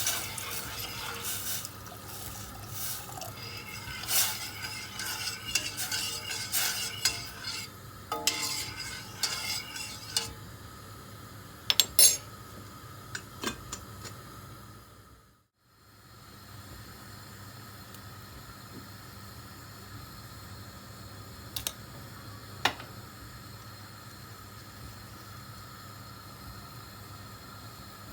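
Food frying in a pan while being stirred, with frequent clinks and scrapes of a utensil against the pan over a sizzling hiss. After a brief break about halfway through, only a quieter steady sizzle remains, with an occasional clink.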